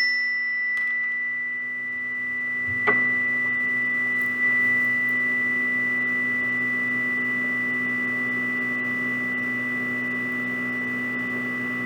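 A chime ringing out with a long, steady tone after being struck, struck again about three seconds in, and fading only slowly.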